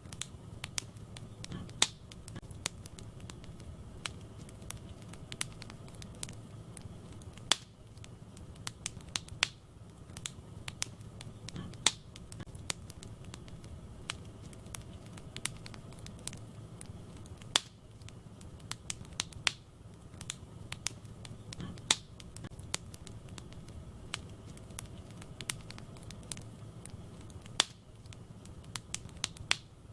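Wood fire burning in a fireplace: constant crackling with sharp pops over a low, steady rumble of flames. The same run of louder pops comes back about every ten seconds, as in a looped recording.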